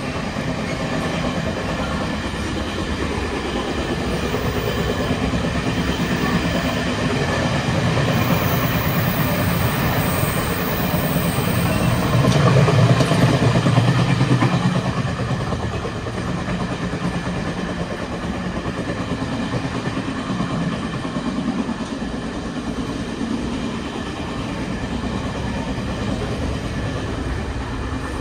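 Passenger train running, heard from inside the carriage: a steady noise of wheels on track that swells louder about halfway through, then settles back.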